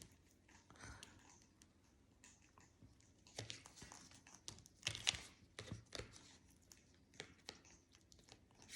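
Faint rustling with a few light clicks and taps as paper picture cards are handled.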